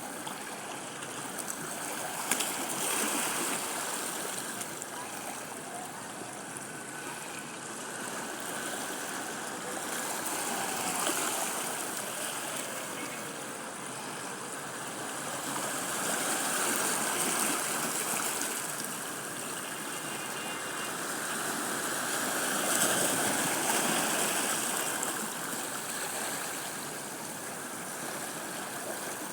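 Sea waves washing onto a beach: a steady rush of surf that swells and fades in slow surges every several seconds.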